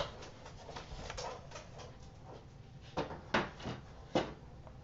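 Paper craft tools and card stock handled on a desk: one sharp click at the start, then light rustling and a few short taps and knocks in the last two seconds.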